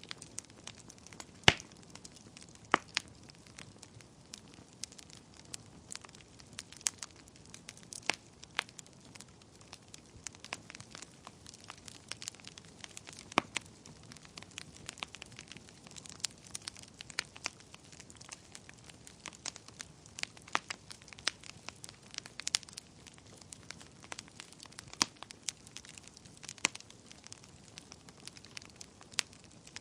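Wood fire crackling in a fireplace: irregular sharp pops and snaps over a faint hiss, the loudest about a second and a half in and again about thirteen seconds in.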